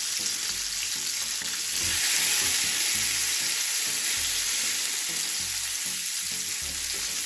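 Salmon fillets sizzling steadily as they pan-fry in hot oil over medium heat, with the soft knocks of tongs moving and turning the fillets in the pan.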